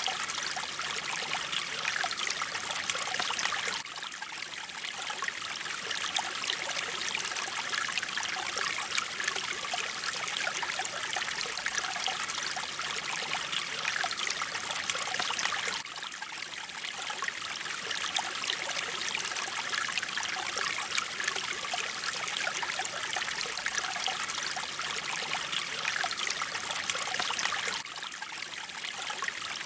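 Mountain stream water flowing steadily, an even rushing and splashing with a brief dip in level about every twelve seconds.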